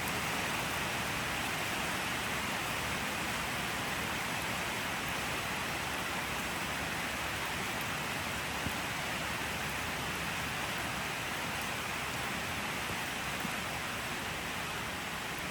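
Steady rain falling, an even hiss with a couple of faint single drop ticks.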